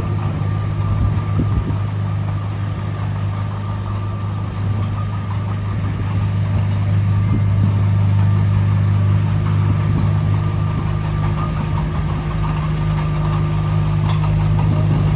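Diesel engine of heavy construction machinery running steadily at a low, even hum, getting a little louder about six seconds in.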